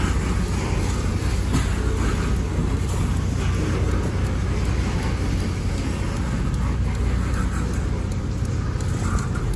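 Freight train of refrigerated boxcars rolling past close by: a steady, low rumble of steel wheels on the rails, without a distinct clickety-clack rhythm.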